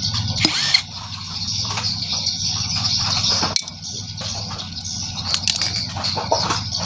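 Scattered metallic clinks and knocks of tools and parts being handled while taking apart a Yamaha 100 motorcycle engine.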